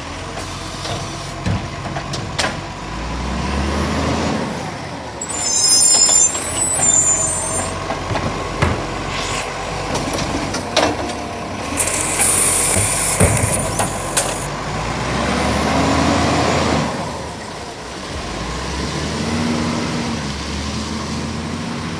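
Garbage truck on a recycling run: its diesel engine runs and revs up several times, with two loud air-brake hisses, about five and twelve seconds in, and scattered knocks and clangs.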